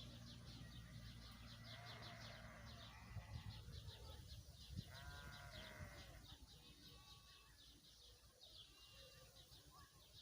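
Faint rural outdoor sound: a bleating farm animal calls once, briefly, about five seconds in, over a steady run of quick high bird chirps.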